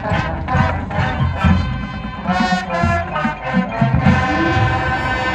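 High school marching band playing, brass over a steady drum beat, moving into a long held chord near the end.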